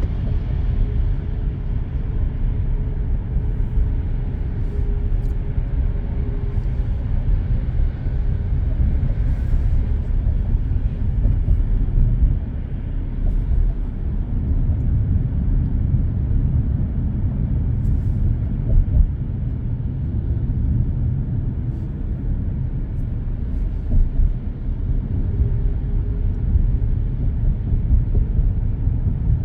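Steady low road rumble of a car cruising on an expressway, heard inside the cabin: tyre and engine noise with a faint hum, and a few light ticks.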